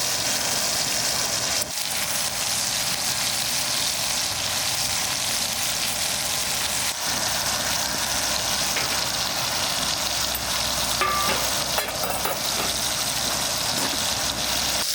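Food sizzling as it fries in a hot pan, a steady even hiss.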